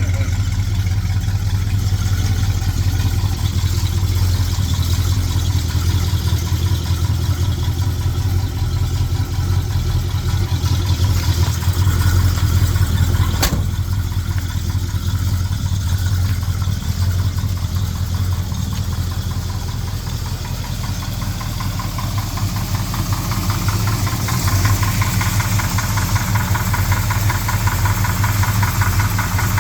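1969 Dodge Super Bee's V8 engine idling steadily with a deep, even pulse. There is a single sharp click about halfway through.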